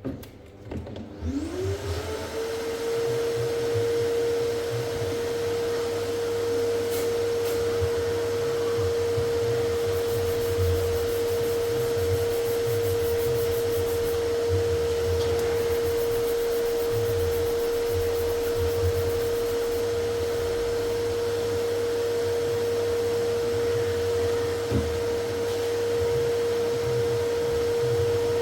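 An electric motor starts and spins up over about two seconds, then runs at a steady high whine over a rushing hiss, like a workshop blower or power tool.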